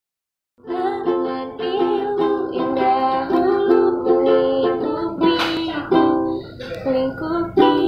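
Plucked string instrument playing chords and melody, starting about half a second in: the instrumental opening of a song.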